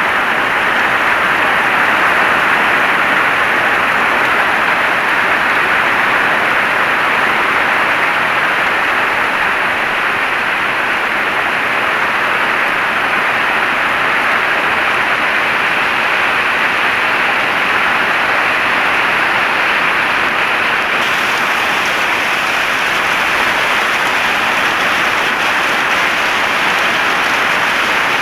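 Heavy rain falling steadily, an even hiss of rain with no breaks or single drops standing out.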